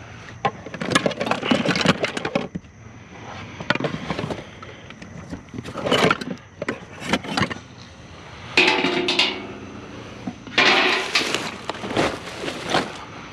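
Discarded junk in a curbside pile being shifted and rummaged through by hand: repeated bursts of clattering, cracking and scraping as items are pulled, dragged and dropped.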